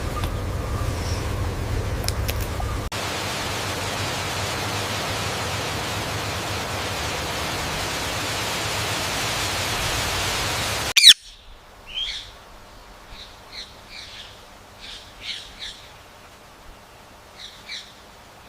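A steady hiss for several seconds, then a parrot gives one sharp, loud call with a falling pitch, followed by a run of short chirps.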